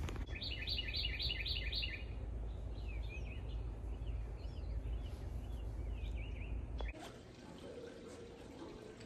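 Wild birds singing outdoors: a quick run of about six repeated high notes near the start, then scattered chirps, over a low wind rumble on the microphone. About seven seconds in the birds and rumble cut off suddenly, leaving a faint steady hum.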